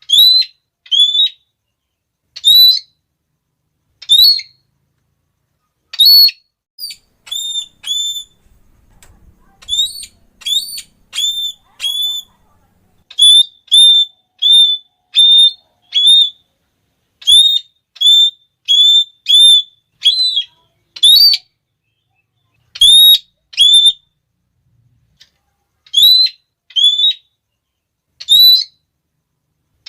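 Red-cheeked parrot (Geoffroyus geoffroyi) giving its shrill, repeated "klee" call: short, sharp notes, singly, in pairs and in quick runs of four or five, broken by brief pauses.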